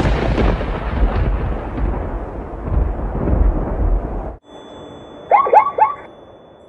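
Thunder sound effect: a deep rumble of thunder that fades over about four seconds and then cuts off suddenly. About a second later come three short, quick falling squeaks.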